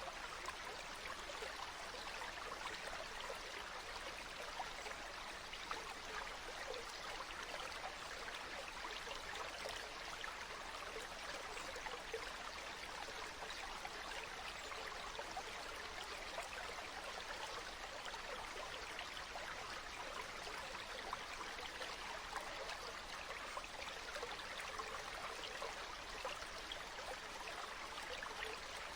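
Stream water flowing steadily, a continuous babbling and trickling.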